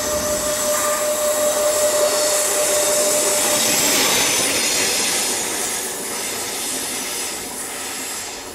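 A train running past, a loud rushing noise that swells just before the start, stays loud for about five seconds, then tails off. A steady high tone sounds through the first three and a half seconds.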